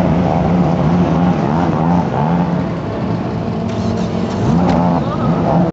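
Hyundai Tiburon accelerating hard down a drag strip. Its engine note dips and climbs again a couple of times during the run.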